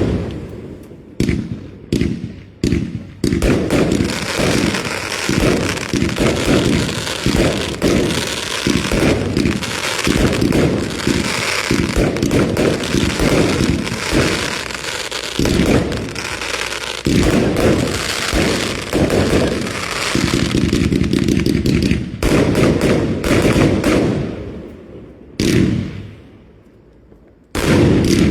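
A fireworks barrage. A few separate bangs open it, then a long rapid run of bangs and crackling follows, and it thins out to single bangs near the end.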